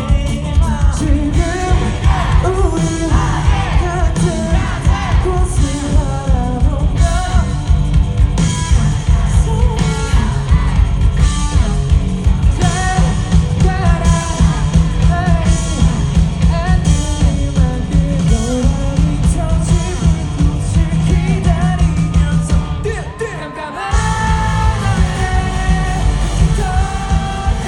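Live rock band playing, with a lead singer over drums, bass and electric guitars through a concert sound system. The band drops out for a moment about twenty-three seconds in, then comes back in at full volume.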